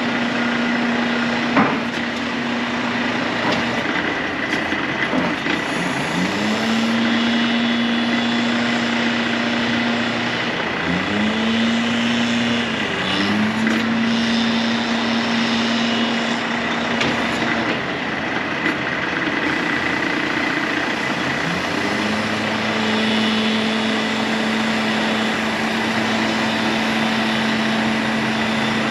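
Volvo VHD heavy truck running steadily, with a hum that several times drops away and rises back to a held pitch. There is a sharp click about one and a half seconds in.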